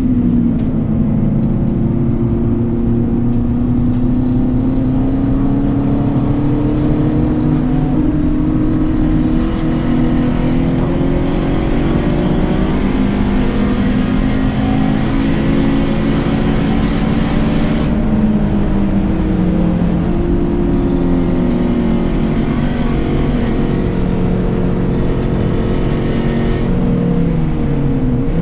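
A Volkswagen track car's engine under hard driving on a lap, its pitch climbing and falling repeatedly as it accelerates, lifts and shifts, with a clear drop about eighteen seconds in.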